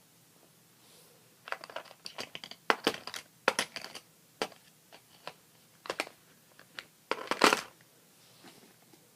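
Irregular clicks, clatters and rustles of hard fishing lures and tackle being handled, with a louder rattling burst near the end.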